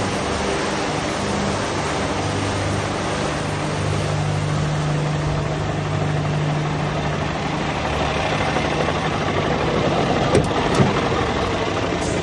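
Scania G 440 truck's six-cylinder diesel engine running steadily, with two short clicks about ten seconds in.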